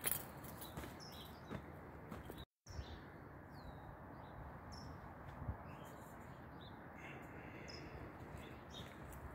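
Faint outdoor ambience: small birds chirping now and then over a steady low background hiss. The sound cuts out completely for a moment about two and a half seconds in.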